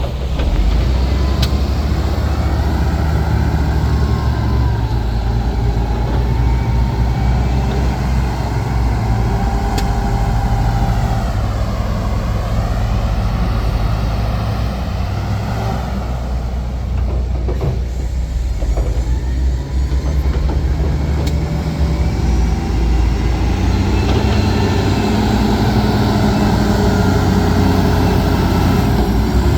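Heavy diesel earth-moving machinery working sand: a continuous low engine drone that rises and falls in pitch as the load changes, with a few faint squeaking tones over it.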